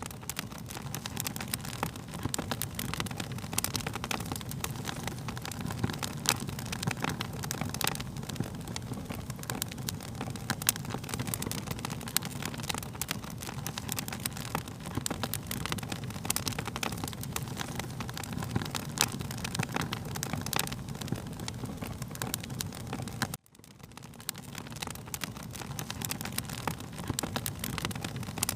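Fire crackling steadily, with a dense run of sharp pops and snaps over a low rushing bed. About 23 seconds in, the sound cuts out abruptly for a moment and fades back up.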